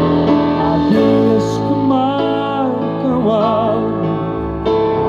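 Live fado with a male voice singing over guitar accompaniment, his held notes wavering with vibrato.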